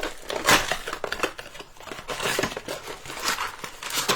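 Trading card packs and cards being handled: plastic wrappers crinkling and rustling in irregular crackles, with light taps and slides of cardboard.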